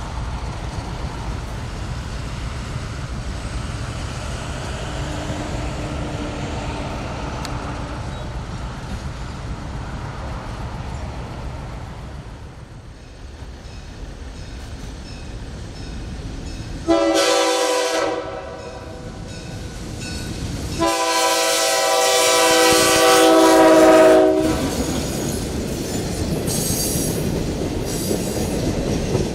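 A diesel locomotive approaches with a low rumble. Its multi-chime air horn sounds one short blast, then a longer, louder one about three seconds later. Wheel and rail noise follows as the train passes.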